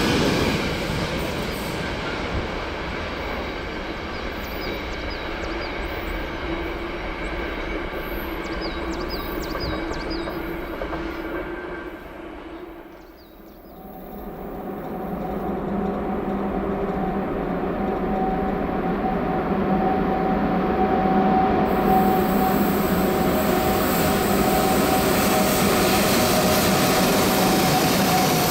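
Train running on the rails, a steady rumble of wheels and running gear with a few faint high squeaks. About halfway through the sound drops away sharply, then builds again with a steady hum.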